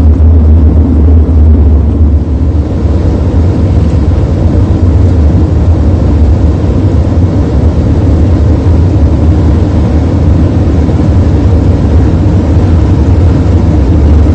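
BMW E92 M3 Coupe's V8 engine and exhaust running with a loud, steady low drone and no clear revving; the loudness dips slightly about two seconds in.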